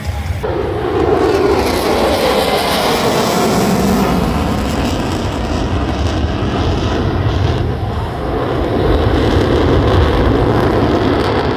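Airplane flying past loud and low. Its engine noise swells suddenly just after the start with a falling pitch as it goes by, dips briefly near eight seconds, then swells again.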